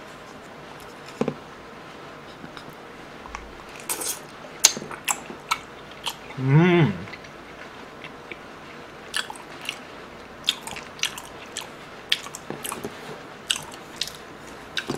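Close-miked chewing of chewy Korean rice cakes (tteokbokki): wet mouth clicks and smacks scattered through, with one short voiced murmur about six and a half seconds in.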